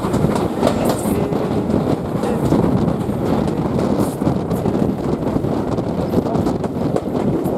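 Heritage railway carriage rolling on the rails with a steady rumble of wheels and light clickety-clack as the steam-hauled train runs into a station platform, heard through an open carriage window.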